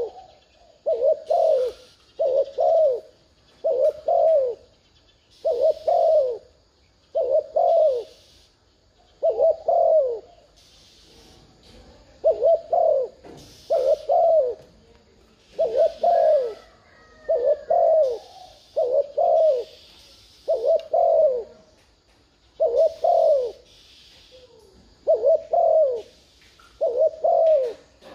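Spotted dove giving its rapid 'gù' coos, a lure call. Short coos of two falling notes repeat about every second and a half, with one brief pause near the middle.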